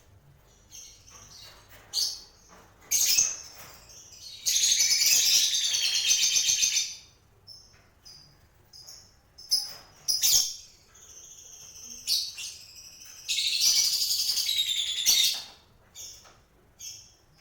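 Pet lovebirds calling, high-pitched. Short chirps run throughout, with two loud bursts of dense chattering, each about two seconds long: one about four and a half seconds in, one near the end.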